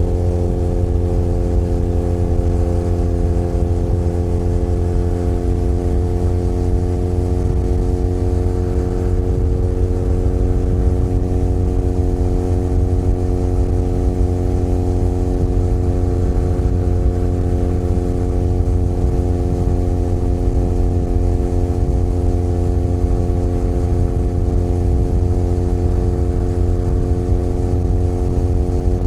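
Benelli Leoncino 500 Trail's 500 cc parallel-twin engine running at a steady cruising speed, its pitch holding nearly constant, with a deep rumble underneath.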